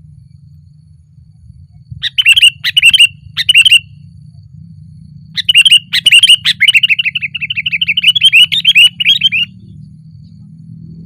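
Sooty-headed bulbul (kutilang) calling loudly: three short phrases about two seconds in, then a long, fast run of repeated chattering notes lasting about four seconds.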